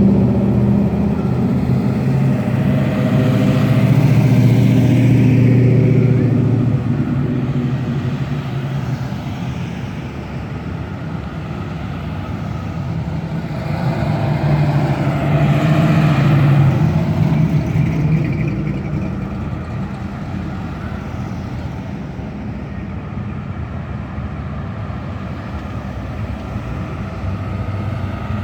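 Classic cars and hot rods driving past on a street, engine sound rising and falling as each one passes. The loudest passes come about four seconds in and again about sixteen seconds in.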